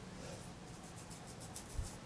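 Faint, quick strokes of a watercolor brush on paper, with a soft knock near the end.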